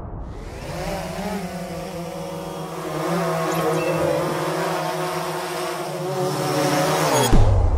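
An engine running steadily, its pitch wavering slightly; it cuts off abruptly about seven seconds in, leaving a low rumble.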